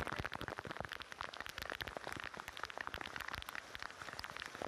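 Heavy rain falling on a flooded street: a dense, steady patter of drops hitting the standing water.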